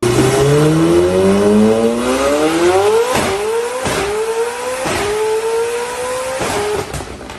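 V8 car engine accelerating hard through the gears. Its note climbs steadily for about three seconds, then a quick upshift drops the pitch about three, four, five and six and a half seconds in, and it climbs again after each shift.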